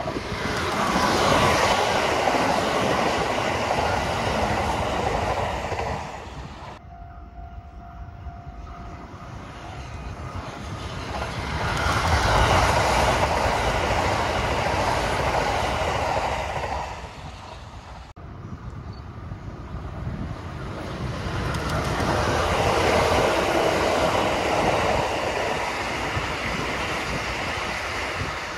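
Trains running past on open track: three separate pass-bys, each swelling and fading, joined by abrupt cuts about seven and eighteen seconds in.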